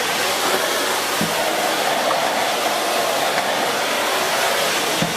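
Miele S8 canister vacuum cleaner running steadily, a constant rushing of air drawn through the hose and floor head. A light knock sounds about a second in and another near the end.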